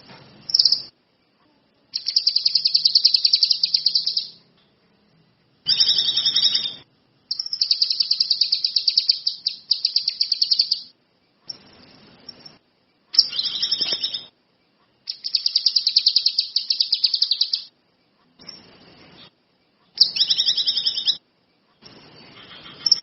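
Kinoi songbird singing vigorously in repeated phrases of fast, high chattering trills, each a second or two long, with short pauses between them.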